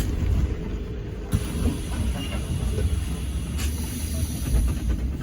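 Alexander Dennis Enviro400 MMC hybrid double-decker bus running, heard from inside as a steady low rumble with rattles. A faint high hiss joins about a second in.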